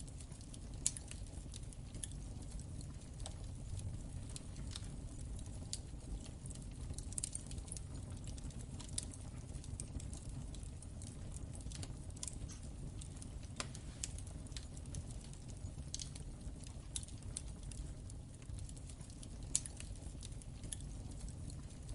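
Wood fire in a fireplace crackling: scattered sharp pops and snaps over a low steady rumble, with two louder pops, one about a second in and one near the end.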